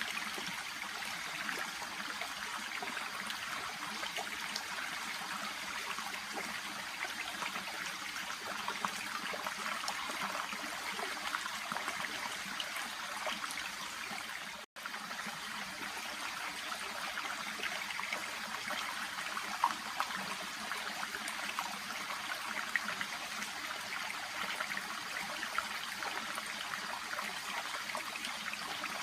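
Shallow brook babbling steadily over stones, with a split-second dropout near the middle.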